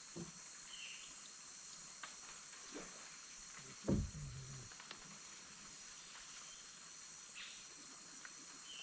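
Rainforest insects, such as cicadas and crickets, keep up a steady high-pitched chorus of several held tones. A single dull thump sounds about four seconds in, and short faint chirps sound about a second in and near the end.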